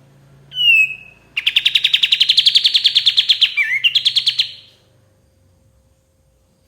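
Sooty-headed bulbul (kapas tembak) singing: a short whistled note, then a fast, rattling trill of about a dozen notes a second lasting around three seconds.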